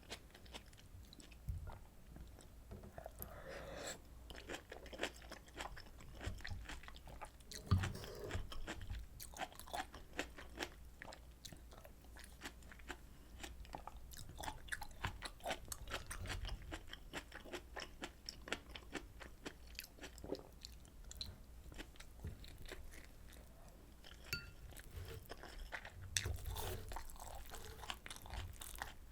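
Close-miked chewing of rolled omelet and pork kimchi stew: a steady run of small wet mouth clicks and crunches, with a louder knock about eight seconds in.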